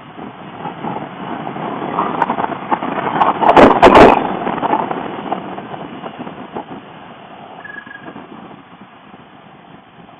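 Motorcycle riding noise, engine and rushing air mixed, swelling to a loud peak with a few sharp crackles about four seconds in, then fading away.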